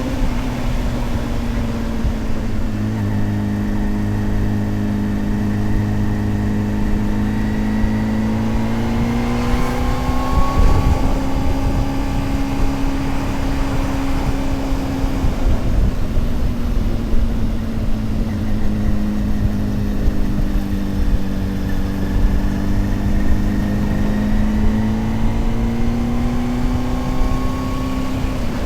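Honda CBR600RR inline-four engine running at steady cruising speed, its pitch dropping and then rising again twice with gentle throttle changes, under rushing wind noise.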